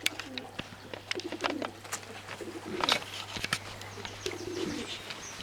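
Fantail pigeons cooing in an aviary: several low, pulsing coos, with scattered sharp clicks and taps between them.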